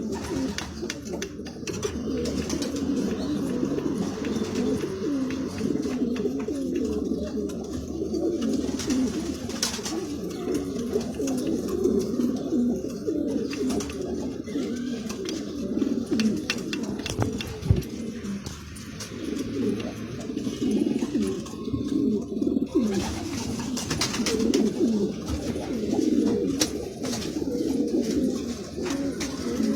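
Several domestic pigeons cooing continuously, their calls overlapping, with a few faint clicks.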